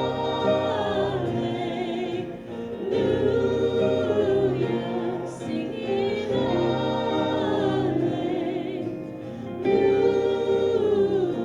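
A group of voices singing a contemporary worship song together in held, sustained phrases.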